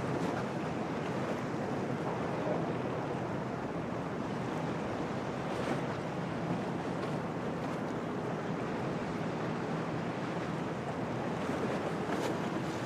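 Storm wind and waves making an even, steady noise, with wind buffeting the microphone.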